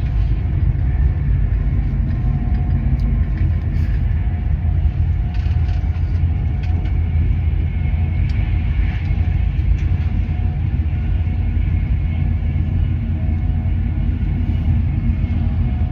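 Passenger train running on the rails: a steady low rumble with faint ticks and rattles.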